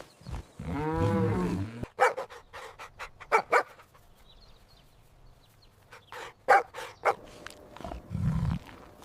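A dog barking: one longer, pitched bark early on, then a handful of short, sharp barks, some in quick pairs.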